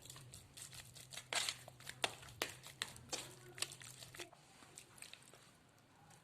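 Irregular crinkling and crunching clicks of food-preparation handling, loudest in the first half, over a steady low hum.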